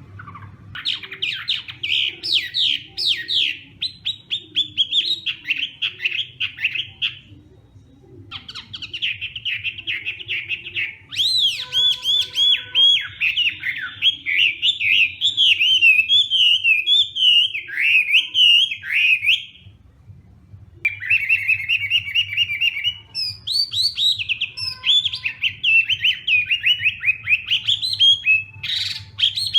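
Chinese hwamei singing: loud, rapid runs of repeated whistled notes and sliding phrases, with two short breaks about seven and twenty seconds in.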